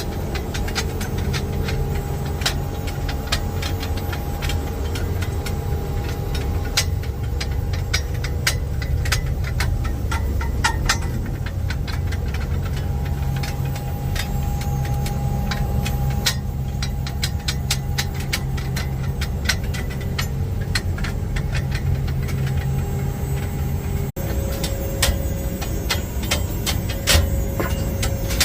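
A motor or engine running steadily with a low rumble, with many sharp clicks and rattles throughout; the sound changes abruptly about 24 seconds in.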